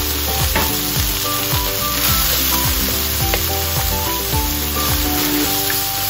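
Shrimp, garlic and onion sizzling in hot olive oil in a wok as a wooden spoon stirs them, with background music playing underneath.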